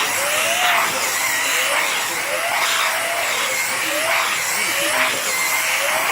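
Dyson vacuum cleaner running, its motor whine bending up and down in pitch about once a second as the nozzle is worked through a dog's fur, over a steady rushing hiss of air.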